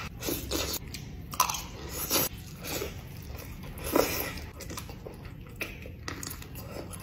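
Biting and chewing a sauce-coated fried chicken drumstick: a string of irregular, short bites and wet chewing, the loudest about four seconds in.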